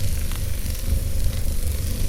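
Wood fire burning in a fireplace: a steady low rumble of flames with a high hiss and a couple of faint crackles.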